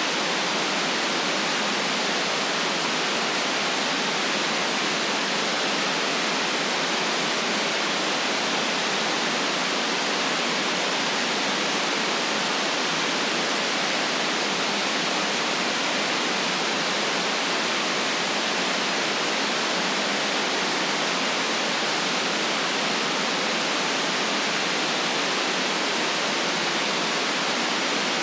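Steady synthetic white noise: an even, unchanging hiss spread across the highs and mids, with little below the low bass.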